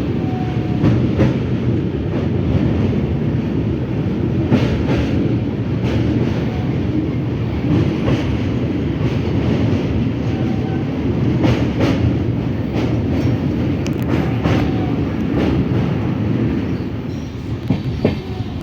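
Passenger train running on the rails: a steady loud rumble, with scattered sharp clicks and knocks from the wheels over rail joints.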